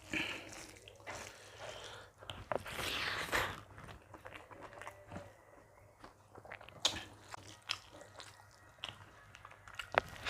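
Close-miked chewing and mouth sounds of a person eating dal, rice and vegetable curries, with scattered sharp clicks and a louder, noisier stretch about three seconds in.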